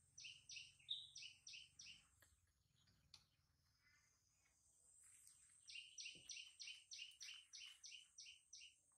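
A bird chirping in two quick runs of short repeated high notes: a short run of about six at the start, and a longer run of about eleven from about six seconds in, over a faint steady high-pitched hum.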